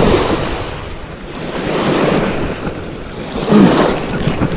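Surf washing onto the beach in swells, with wind buffeting the microphone; the loudest swell comes about three and a half seconds in.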